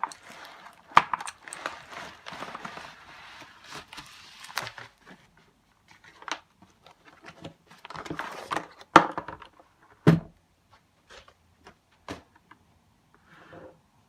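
Mechanical keyboard and its hard plastic parts being handled: irregular clicks, knocks and light rattles, dense at first and then sparser, with a deeper knock about ten seconds in.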